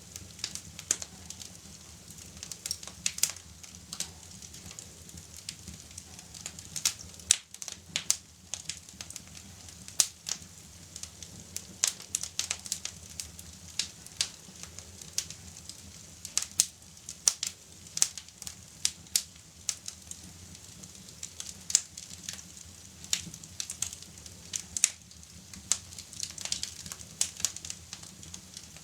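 Fire crackling: irregular sharp pops and crackles, several a second, over a low steady hum.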